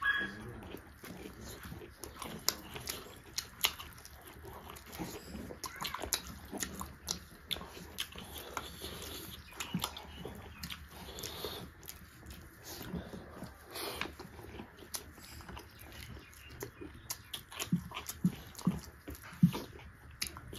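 Close-miked eating of pork curry and rice: chewing and lip smacking with a steady stream of wet mouth clicks and smacks.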